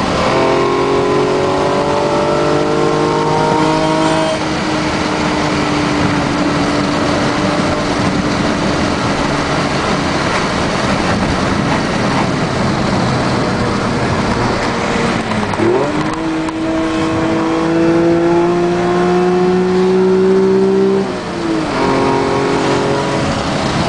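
Nissan Skyline R34 GT-V's naturally aspirated RB25DE straight-six breathing through six individual throttle bodies, accelerating hard. The engine pitch climbs for about four seconds, then eases off and sinks slowly. In the second half it climbs again twice, each time after a sudden drop in pitch at a gear change.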